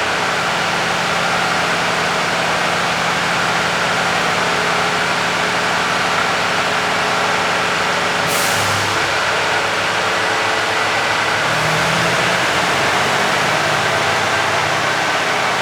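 Mercedes-Benz Actros 1840 tractor unit's six-cylinder diesel engine idling steadily, with a short sharp hiss of compressed air about eight seconds in, typical of the air system venting.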